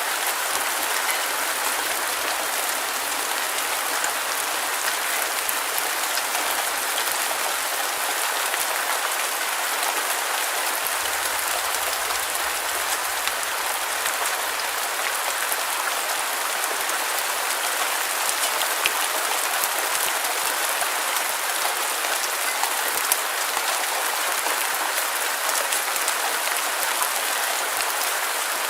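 Steady, dense rainfall: a constant hiss of many fine drop patters, with no thunder or changes in intensity.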